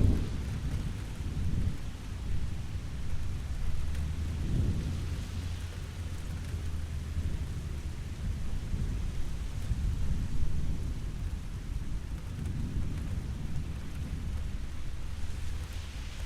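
Steady rain hiss over low rolling thunder that rumbles on and swells a few times.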